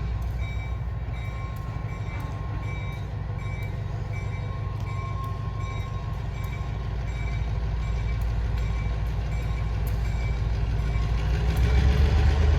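Diesel freight locomotive running with a low, steady rumble that grows louder near the end as it starts to move, while a bell dings in a steady rhythm about twice a second.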